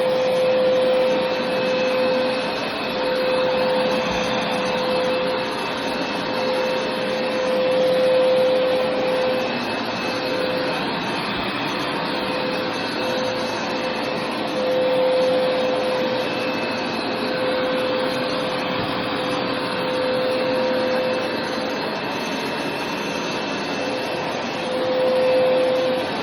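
Hoover carpet-cleaning machine running over carpet: a steady motor whine over a rushing hum, swelling and easing every few seconds as it is worked back and forth.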